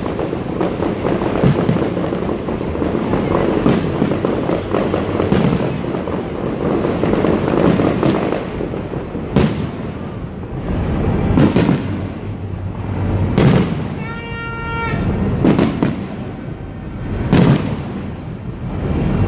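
Aerial fireworks exploding: a dense run of overlapping bangs and booms for the first several seconds, then separate loud bangs about every two seconds. A brief steady pitched tone sounds about fourteen seconds in.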